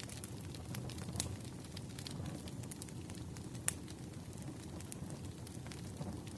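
Wood fire burning steadily with a low rumble and irregular sharp crackles and pops from the logs, one louder pop a little past the middle.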